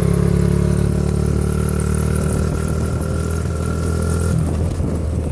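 Small 50cc engine running at a steady speed under a rider, its note dropping away about four seconds in.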